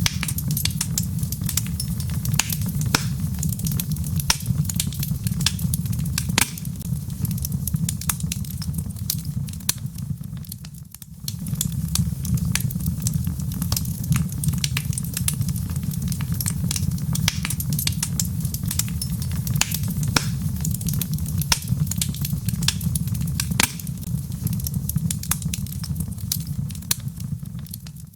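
Log fire in a fireplace crackling, with frequent sharp pops over a steady low rumble of the flames. The sound dips briefly about eleven seconds in, then carries on.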